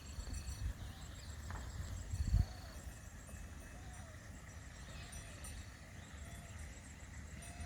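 Outdoor village ambience: a steady low rumble, one loud thump about two and a half seconds in, then a series of short rising-and-falling animal calls about once a second, with a few faint high chirps.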